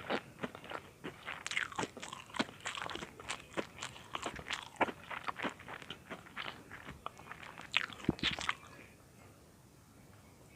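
Close-miked crunching and chewing of crisp butter-toasted bread cubes, a dense run of sharp crackles that dies away about two seconds before the end.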